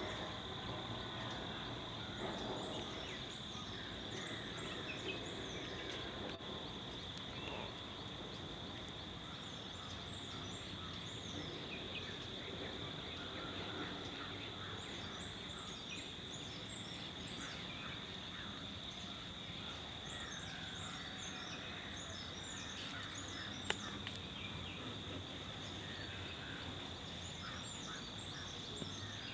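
Dawn chorus of many birds chirping and calling in overlapping bursts, over a steady high-pitched insect drone. A single sharp click sounds a little after the middle.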